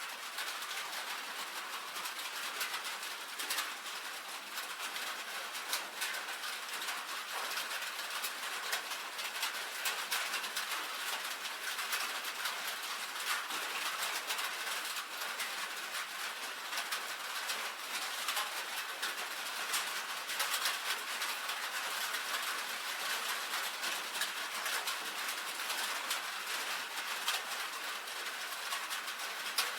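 Steady rain on a tin roof: a dense patter of many small drop taps over an even hiss.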